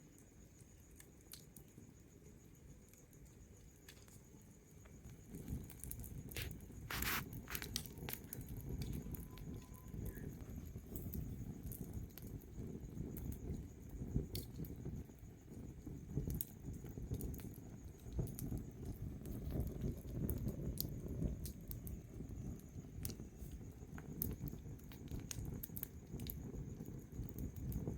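Wood fire burning: a low rumble of flames with scattered sharp crackles and pops, getting louder about five seconds in.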